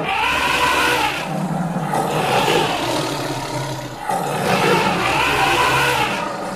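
An animal roar sound effect, repeated about every two seconds, each roar rising and falling in pitch.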